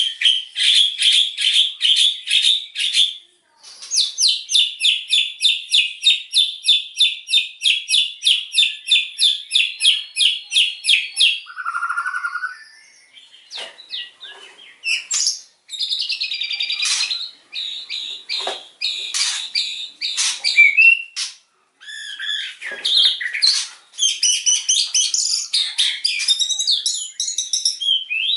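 White-rumped shama (murai batu) singing: two long runs of fast, evenly repeated rapid-fire notes through the first eleven seconds or so, then varied whistled phrases with rising and falling notes.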